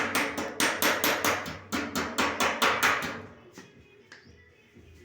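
Rapid, even knocking, about four or five sharp strikes a second over a low hum, that stops about three seconds in, leaving only faint steady tones.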